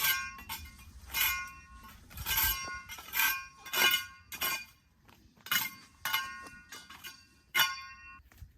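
Sharp ringing clinks of hard objects striking one another, about a dozen at an uneven pace, each ringing briefly.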